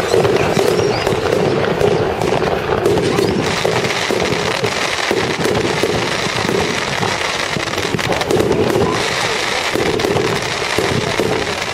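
Fireworks display: a dense, continuous crackle of many small bursts going off together, without a break.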